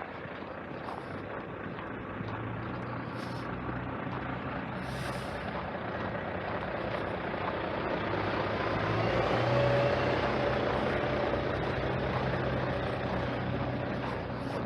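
A heavy motor vehicle passing close by. Its engine hums at a steady low pitch under a rushing noise, growing louder to a peak about two-thirds of the way through, then easing off.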